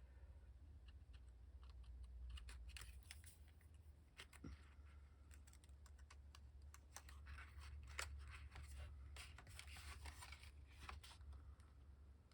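Faint, irregular clicking and rustling of stiff paper cards being handled and sorted through by hand, over a low steady hum.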